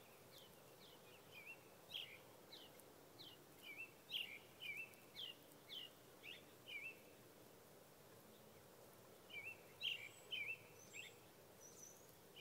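A bird calling: short, high chirps about two a second for several seconds, a pause, then a few more near the end, over a faint steady hiss.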